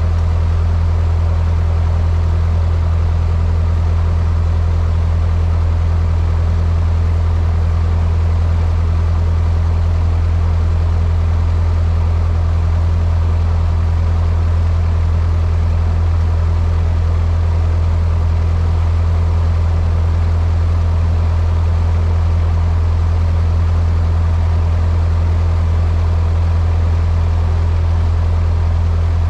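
Cessna 152's four-cylinder Lycoming engine and propeller droning steadily, heard inside the cockpit: a strong low hum over a noisy wash, with no change in pitch or level.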